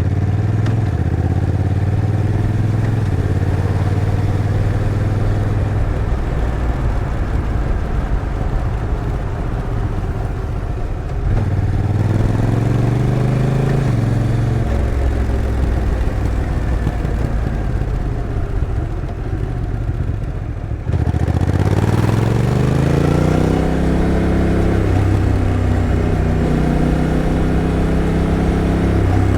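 Honda NT1100's 1,084 cc parallel-twin engine running while riding, its pitch rising briefly about eleven seconds in. About 21 seconds in it gets suddenly louder and climbs in pitch under acceleration, stepping as the dual-clutch transmission changes gear.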